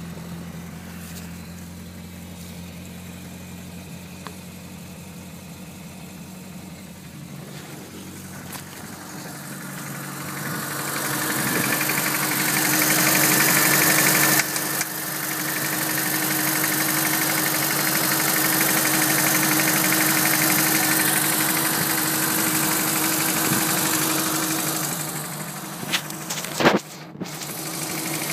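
Mini's engine running with a weird knocking noise. It runs steadily at first, grows much louder from about ten seconds in and stays loud, then drops back, with a couple of sharp clacks near the end.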